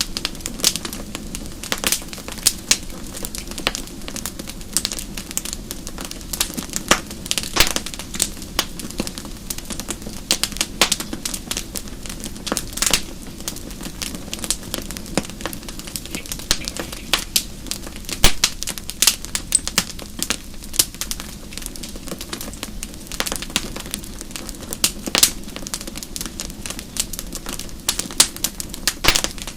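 Wood fire crackling and popping in a fireplace: many sharp irregular pops and snaps over a steady low hiss of burning logs.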